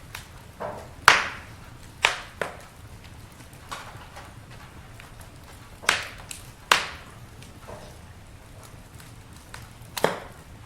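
Campfire crackling: burning wood gives off sharp pops and snaps at irregular intervals, about half a dozen loud ones, over a steady low rumble of the fire.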